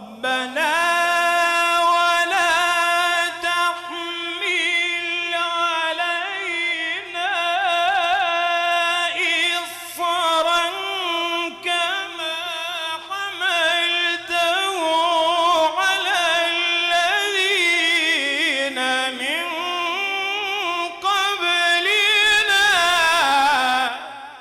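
A single voice singing in an ornamented Middle Eastern style: long held notes broken by wavering, melismatic runs. It fades away at the very end.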